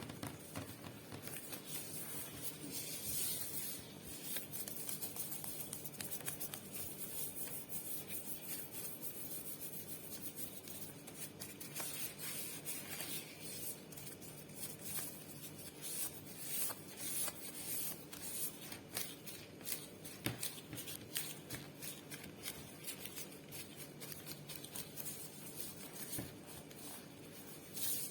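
Rubber-gloved fingers rubbing, scratching and tapping on a microphone: a dense run of small clicks and crinkly rustles, with brighter hissing rubs now and then.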